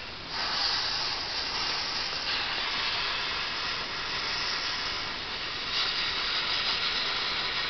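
2mm green safety fuse catching light and burning with a steady hiss, which starts abruptly just after the beginning and is strongest for its first couple of seconds.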